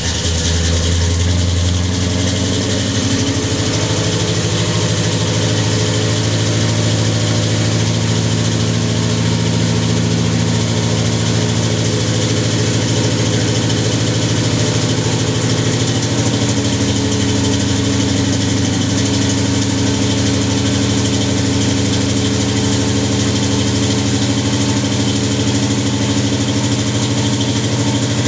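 1968 Pontiac Beaumont's 350 cubic-inch V8 idling just after a cold start, through Thrush welded mufflers with an X-pipe. The idle note shifts about three seconds in and again about halfway through.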